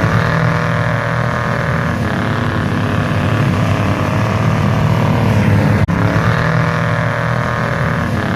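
Large vehicle engine running hard at high revs under load, its pitch rising and sagging slightly, with a sudden brief cut in the sound about six seconds in.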